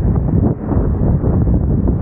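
Wind buffeting the microphone: a loud, low, fluttering rumble with a brief dip about half a second in.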